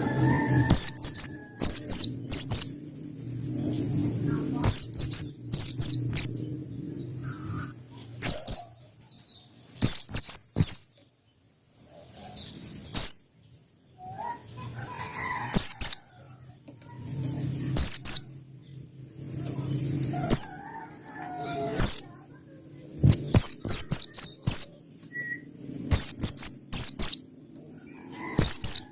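Pleci (white-eye) singing: short, quick, high-pitched chirping phrases repeated every second or two. A low hum comes and goes underneath.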